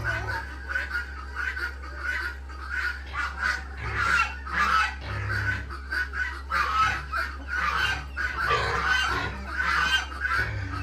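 A flock of poultry calling, many short overlapping calls in a steady chatter, over a low steady hum.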